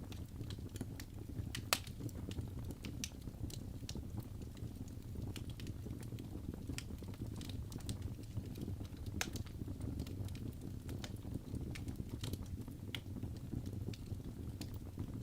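Wood logs burning in a fireplace: a steady low rush of flame with irregular sharp crackles and pops, the loudest pop close to two seconds in.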